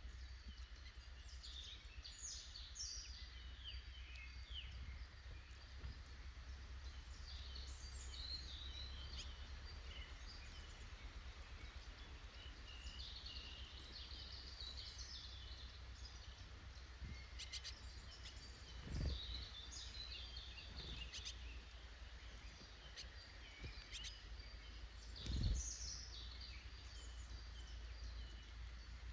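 Wild woodland birds singing and calling in short repeated phrases, over a steady low rumble. Two dull thumps stand out, the louder one near the end.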